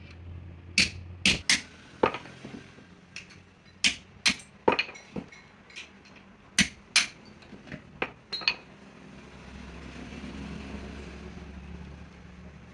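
Hand tools striking metal parts: about fifteen sharp, irregular knocks and clinks over eight seconds. A low engine-like hum rises near the end.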